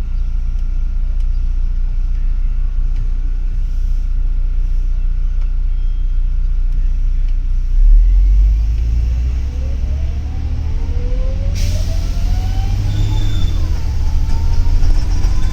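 Double-decker city bus heard from inside: a steady low engine rumble, a loud thump about eight seconds in, then the bus pulls away with a whine that climbs in pitch as it gathers speed.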